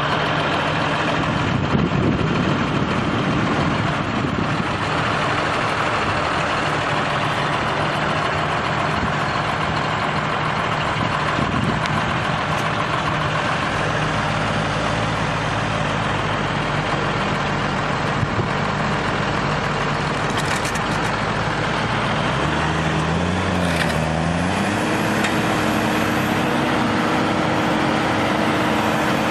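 Heavy vehicle engine running steadily. About three-quarters of the way through the sound changes to another engine with a steadier, higher hum.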